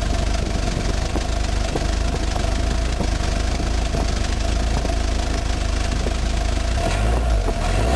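Ford Mustang's turbocharged 2.3-litre four-cylinder idling through its new exhaust, steady and loud with irregular light ticks. It gets slightly louder and rougher near the end.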